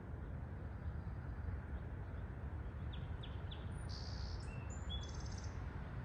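A small bird calling about halfway through: three quick chirps, then a short buzzy note and a rapid trill, over a steady low rumble.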